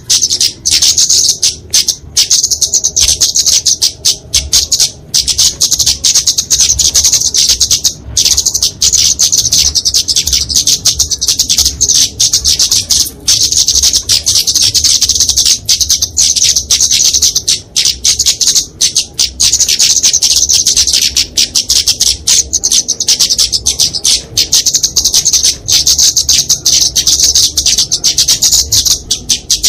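Flowerpecker (kemade, genus Dicaeum) calling in a fast, almost unbroken stream of high, sharp chattering notes with only brief pauses: the agitated 'fighting' calls of the bird.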